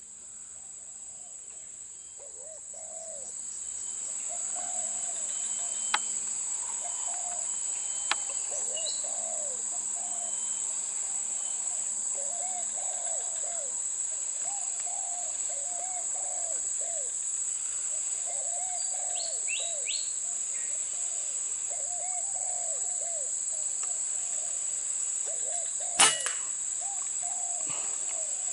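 Steady high-pitched insect drone with repeated low dove-like coos throughout. About two seconds before the end comes a single sharp crack, the shot of a Semar Neo Z air rifle that brings down a bird.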